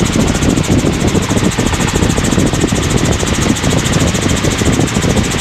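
Helicopter in flight: steady engine and rotor noise inside the cabin, with a fast, even pulsing.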